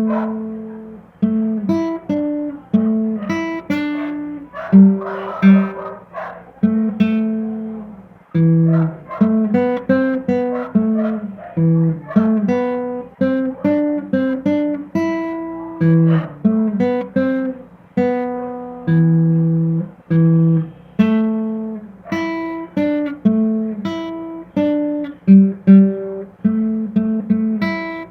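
Solo acoustic guitar playing an instrumental tune, plucked melody notes over lower bass notes, each note ringing and dying away.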